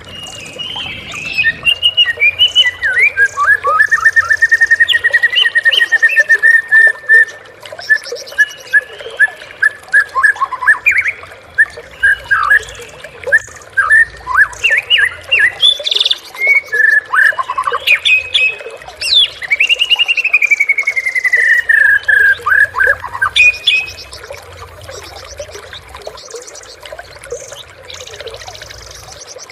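White-rumped shama (murai batu) singing a long, varied song of rapid trills, whistles and chattering notes. The song drops away to a quieter background about 24 seconds in.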